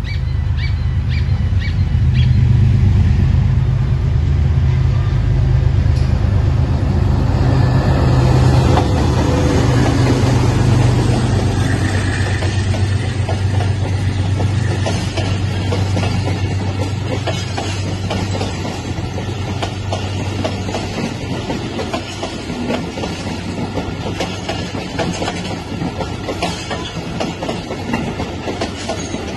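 Diesel locomotive passing close by at the head of a passenger train. Its engine is loud and steady for roughly the first ten seconds, then fades as the passenger coaches roll past with continuous wheel clatter on the rails.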